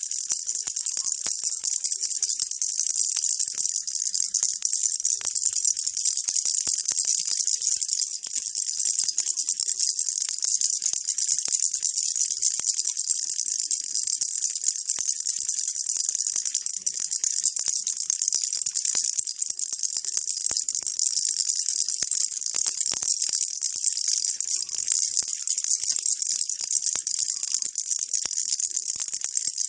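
Baby rattle shaken without a break, a dense, steady stream of fine high rattling.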